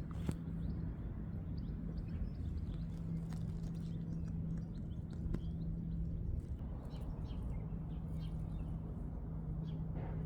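Outdoor ambience: scattered short bird chirps over a steady low hum and low rumbling noise, with a few sharp clicks.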